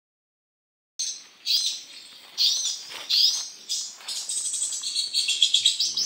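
Birds chirping in quick, high calls: a few separate call phrases about a second apart, then continuous twittering from about four seconds in.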